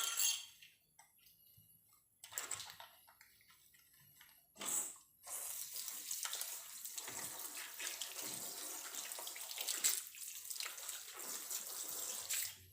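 Water running steadily into a bathtub or sink from about five seconds in, with two short splashy bursts of noise before it.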